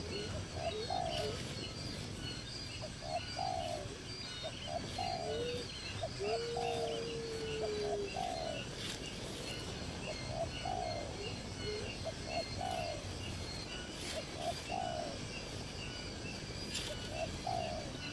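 Birds calling: a short two-part call repeats about once a second, one long steady note sounds about six seconds in, and faster high chirps run underneath.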